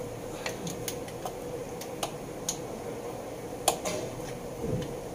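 Scattered metallic clicks and clinks of hand tools and parts being handled during engine assembly, about seven at uneven intervals, the loudest a little before four seconds in. A steady hum runs underneath.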